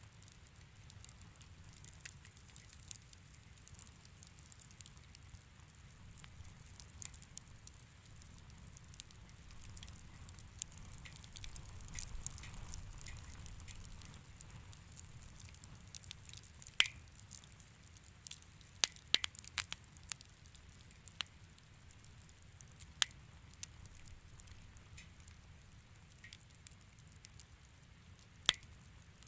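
Wood fire crackling softly over a low steady rumble, with scattered sharp pops, several of them in the second half.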